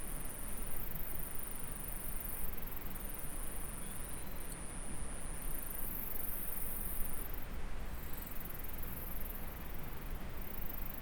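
Insects trilling high and thin in repeated phrases of about a second each, over the steady rush of a flowing stream.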